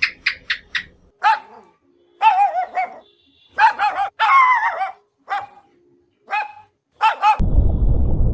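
A dog yipping and barking: a quick run of short high yips, then longer calls with a wavering pitch and a few single barks. Near the end a steady rushing noise starts abruptly and covers it.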